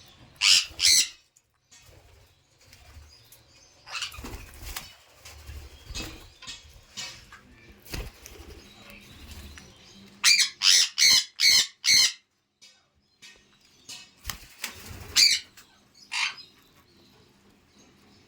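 A pet parrot giving short, loud, sharp calls: two near the start, a quick run of five about ten seconds in, and two more near the end, with fainter rustling and wing movement between.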